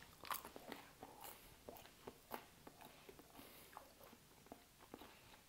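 A person biting into and chewing microwave fries with chutney: faint, irregular small crunches and mouth clicks.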